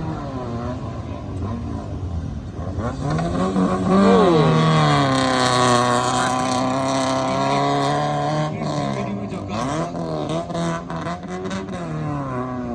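Rally car engine revving hard: the pitch climbs steeply about three seconds in and holds high for several seconds, the loudest part, then rises and falls, with scattered sharp clicks near the end.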